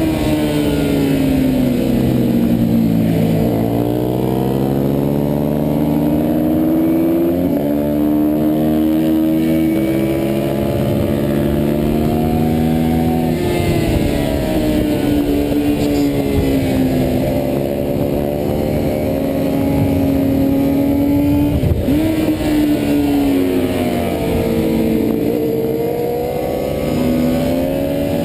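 Yamaha FZR400RR's inline-four engine running at high revs under racing load, heard from on the bike. Its pitch falls over the first few seconds, jumps up about seven seconds in, then drops and climbs again several more times as the bike works through the corners.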